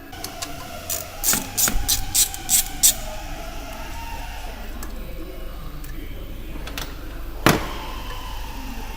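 Hand tools working on engine-bay parts: a quick run of sharp metallic clicks and knocks, then one louder knock about seven and a half seconds in, over a steady low hum.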